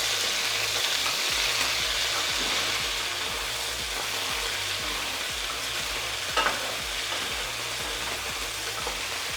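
Beef strips sizzling steadily in hot oil in a pan while they sear to a crust. A short scrape comes about six seconds in as the strips are moved around.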